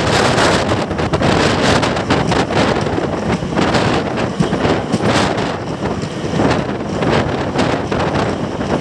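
Wind buffeting the microphone at the open door of a moving passenger train, over the steady running noise of its coaches on the track.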